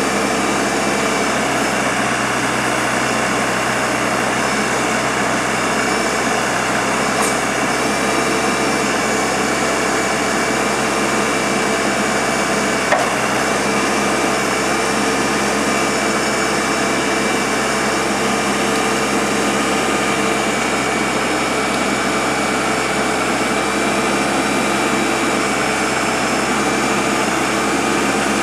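Komatsu WB142 backhoe loader's diesel engine running steadily under operation, a constant engine drone with a steady whine and a couple of faint clicks.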